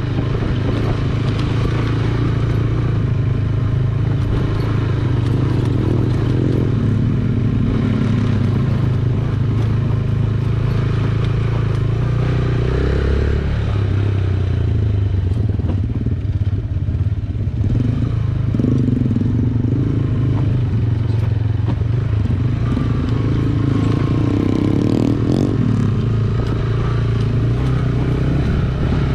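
Yamaha YBR125G single-cylinder four-stroke motorcycle engine running steadily under way, with rattling along the road. The engine note shifts about halfway through and again a few seconds later.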